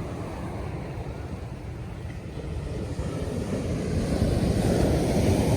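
Wind rumbling on the microphone over ocean surf, growing louder a little past halfway.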